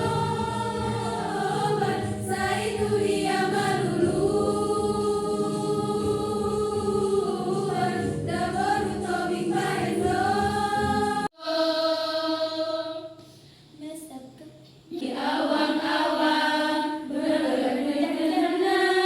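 A choir singing together in rehearsal. About eleven seconds in the singing cuts off abruptly, fewer voices carry on more quietly for a few seconds, and the full choir comes back in about four seconds later.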